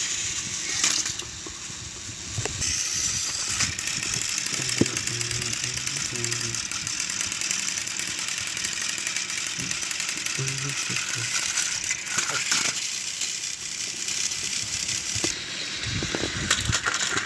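Motorized toy trains running under strain, their gear motors and wheels making a fast, continuous rattling click that starts about three seconds in and stops a couple of seconds before the end.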